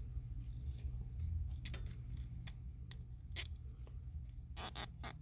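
Long plastic zip ties ratcheting as two are joined end to end: short sharp clicks, a few scattered at first, then several in quick succession near the end.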